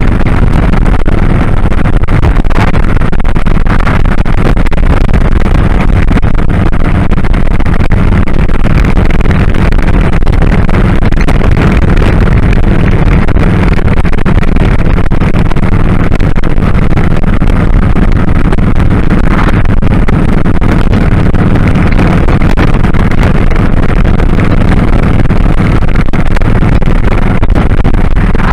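2001 Kawasaki Drifter 1500's V-twin running at a steady cruise, loud and unbroken, with wind rushing over the microphone while riding.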